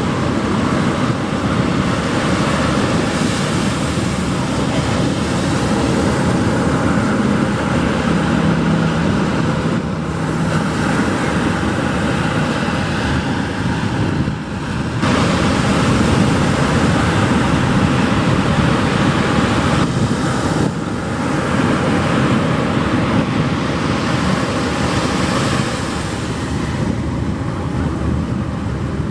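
Pacific Ocean surf washing continuously onto a beach, loud and steady, swelling and easing with a brief lull about halfway through before the wash surges back.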